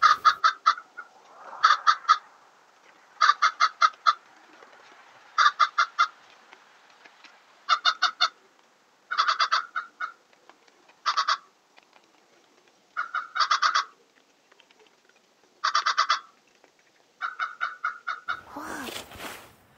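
A bird calling in quick runs of three to five short notes, repeated every second or two.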